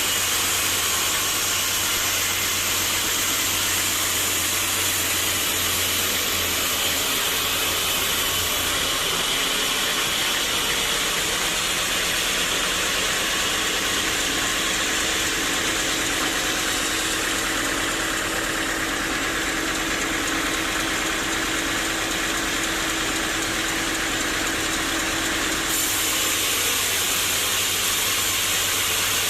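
Sawmill machinery running steadily, a loud even mechanical noise with hiss. A low hum drops away about nine seconds in and comes back near the end, and a faint steady tone is heard in the middle stretch.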